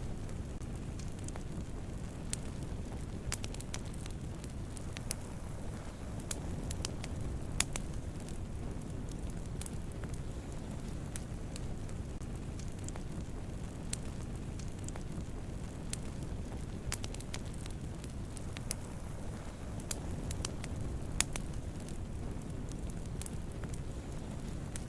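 Wood campfire burning: a steady low rumble of flames with frequent irregular crackles and sharp pops from the burning wood.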